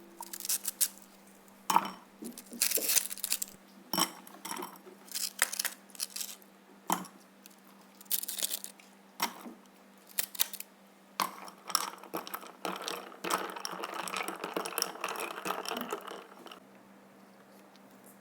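Hard objects clinking and clattering as they are handled and set down, with a stretch of scraping or rustling about two-thirds of the way through, over a steady low hum.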